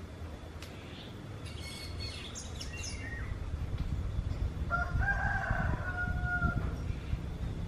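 Oriental magpie-robin (kacer) giving a quick run of high chirps, then a drawn-out kitten-like mewing call of about two seconds, over a low background rumble.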